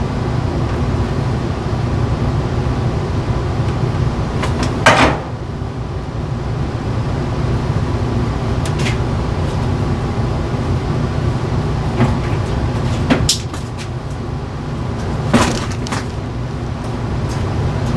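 A steady low rumbling noise, with a few short knocks or clacks over it, the loudest about five seconds in.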